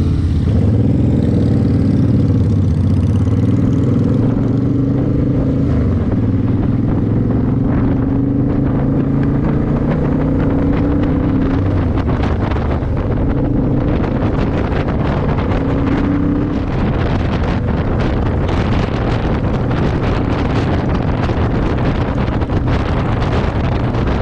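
Harley-Davidson Road Glide's V-twin engine running under way, pulling off and gaining speed with its pitch climbing slightly. Wind buffeting the microphone grows steadily and covers most of the engine in the last third.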